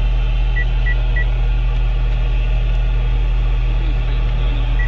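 2003 Hummer H2's 6.0 L LQ4 V8 idling with a steady low drone, heard from inside the cab. Three short high electronic beeps come about a third of a second apart early on, and one more near the end.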